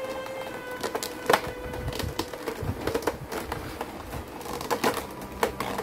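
Irregular sharp clicks and taps of packaging being handled while figures are unboxed, over background music with held notes.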